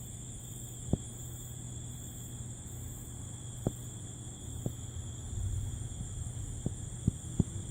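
Night insects, crickets, trilling in a steady high even tone, with a regular high pulsing above it and a low steady hum beneath. A handful of sharp clicks stand out over it, the loudest about a second in and near the end.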